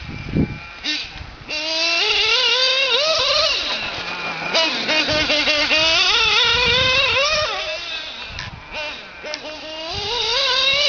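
Small nitro engine of an Associated SC8 RC short course truck running, its pitch rising and falling again and again as the throttle is worked through corners and straights.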